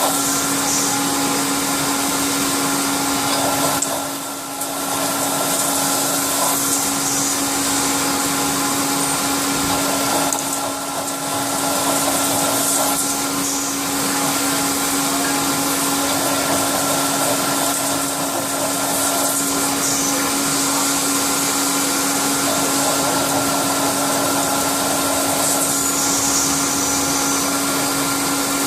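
CNC milling machine running, a steady tone over a strong hiss, with brief dips in level twice.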